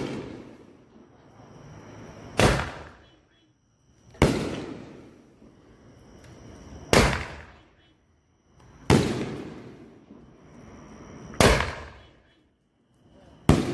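Aerial firework shells fired from mortar tubes. Each leaves its tube with a sharp thump and bursts overhead with a loud, echoing boom about two seconds later, giving a steady run of booms every two seconds or so.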